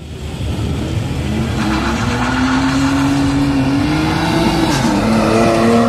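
BMW car accelerating hard from a standing start, its engine note climbing steadily in pitch, dropping at an upshift near the end, then climbing again.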